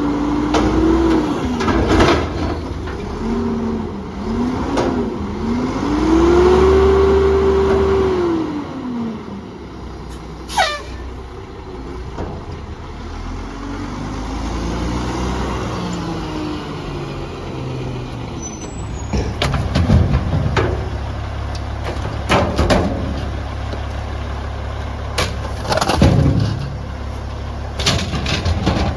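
Diesel garbage truck working: the engine rises and falls in pitch over the first eight seconds, then runs steadily, with several sharp knocks and clanks in the second half.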